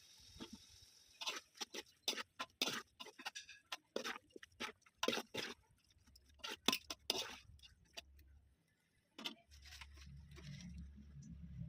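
Cooking in a pot: a run of irregular sharp clicks and crackles for several seconds, then a low rumble starting near the end.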